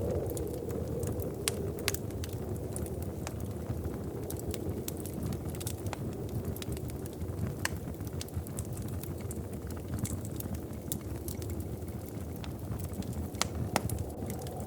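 Wood fire crackling in a fireplace: frequent sharp pops and snaps, a few louder ones near the end, over a steady low rumble.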